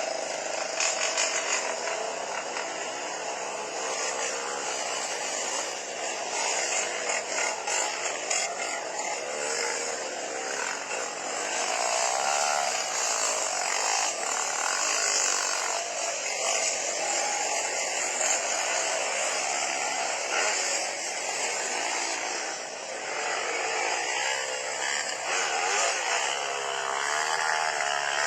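Motorcycle engines at high revs, a continuous buzzing whine whose pitch rises and falls as the bikes race past.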